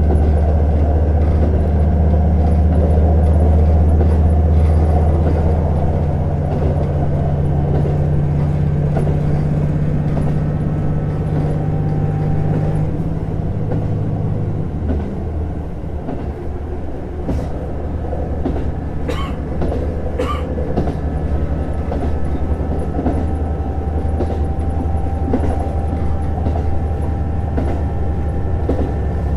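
JR Hokkaido KiHa 150 diesel railcar running, its engine a deep steady drone over the wheel and rail noise. The drone changes and eases about halfway through as the engine throttles back. Two short, sharp high sounds come near two-thirds of the way through.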